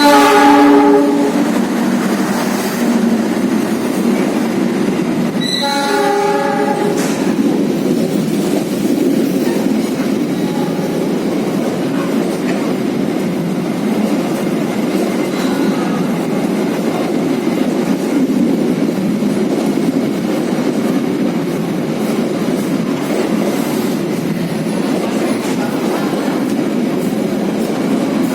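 A train passing through a station sounds its horn twice, once at the start and again about six seconds in, then runs past with a steady rumble of wheels on rail.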